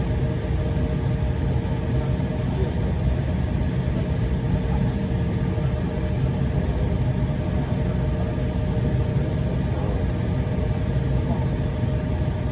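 Steady low rumble of an airliner cabin, the engines and air system running, with a faint steady hum on top and no change throughout.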